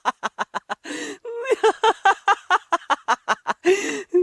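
A person laughing hard in fast repeated 'ha' pulses, with two breathy gasps for air, about one second in and near the end.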